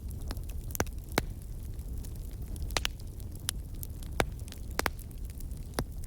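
Wood fire in a fireplace burning with a steady low rumble of flame and irregular sharp crackles and pops from the burning logs, about a dozen in six seconds.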